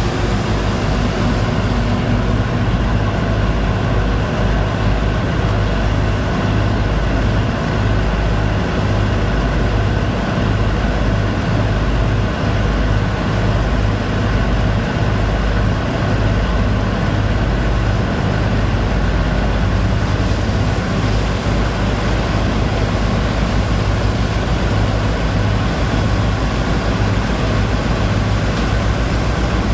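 Engine of a boat's sand-pumping rig running steadily at constant speed, a continuous heavy low drone.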